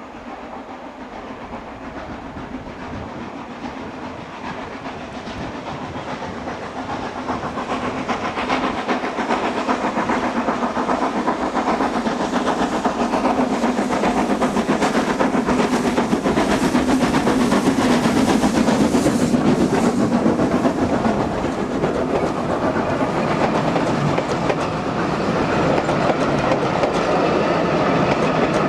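Double-headed steam train climbing a steep gradient, approaching and passing, growing louder over the first ten seconds. Its wheels clatter on the rails.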